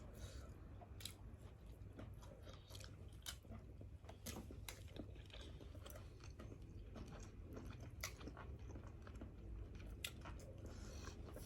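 Faint close-up chewing of someone eating grilled fish, with many small sharp mouth clicks and smacks scattered throughout.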